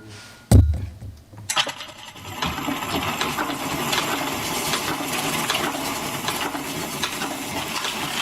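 Player piano mechanism knocking into rewind with a single thump about half a second in, then the paper piano roll spooling back at speed with a steady, dense clicking rattle.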